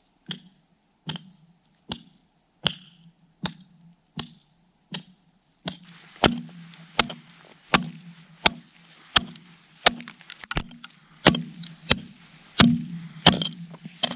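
Repeated chopping strikes into lake ice with a hand tool, to cut a test hole and check the ice thickness. The strikes come about one every 0.8 s for the first half, then faster and more unevenly.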